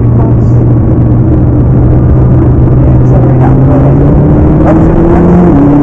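McLaren MP4-12C's 3.8-litre twin-turbo V8 pulling hard under acceleration. Its pitch climbs slowly through the second half, then steps down near the end at a gear change.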